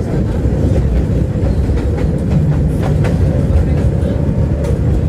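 Tram running along its track, heard from inside the passenger car: a steady low rumble with the wheels knocking and clicking on the rails at irregular moments.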